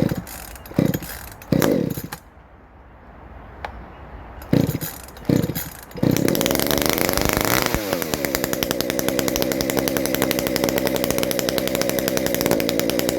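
Ported Shindaiwa 390sx two-stroke chainsaw being pull-started from cold: several short pulls on the starter cord, then it catches about six seconds in, revs up and falls back, and settles into a steady idle. Its ignition timing has just been advanced, which should audibly change how it runs.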